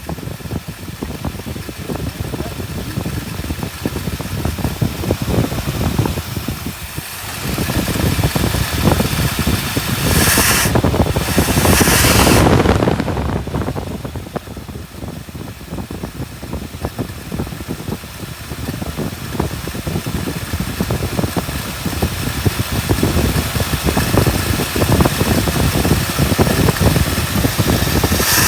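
1959 Buick Nailhead V8 running after a crank-no-start with weak spark, now firing on one of two ignition coils selected by added toggle switches. It gets louder about eight seconds in, with a louder rushing stretch from about ten to thirteen seconds in.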